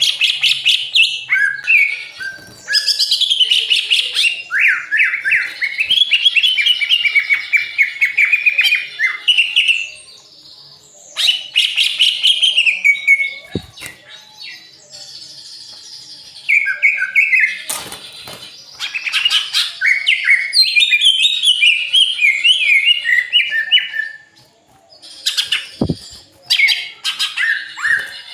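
Caged songbirds singing in loud bouts of fast, varied chirps and whistled trills, broken by short pauses. Two brief dull thumps come in the quieter gaps.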